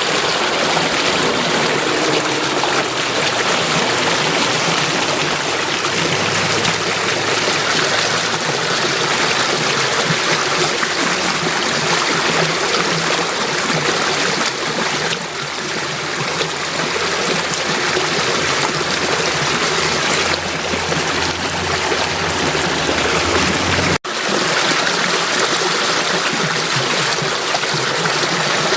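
Flowing water running steadily, a dense rushing babble like a stream. It cuts out for an instant a little before the end and resumes at once.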